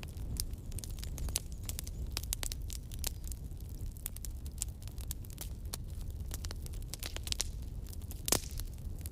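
Campfire crackling: burning wood snapping in irregular sharp clicks over a low steady rumble of the flames, with one louder pop about eight seconds in.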